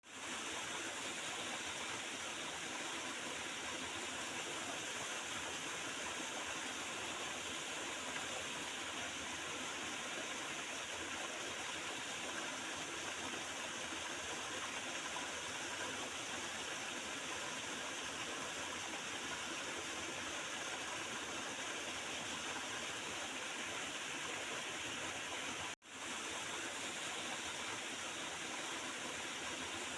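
Small river flowing steadily over stones, gurgling water. Near the end the sound cuts out for a split second, then resumes.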